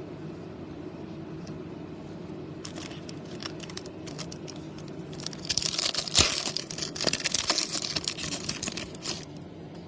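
Foil trading-card pack wrapper being torn open and crinkled by hand. It starts softly about three seconds in and grows loud in the second half, with one sharp crack near the middle.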